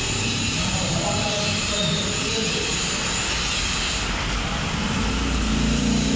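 Steady hiss of a pressure-washer spray during an engine wash, with a low rumble underneath that grows louder near the end.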